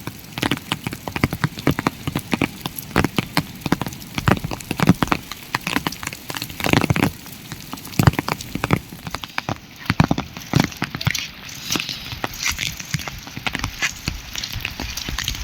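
Rain falling, with dense, irregular drops tapping sharply on a nearby surface.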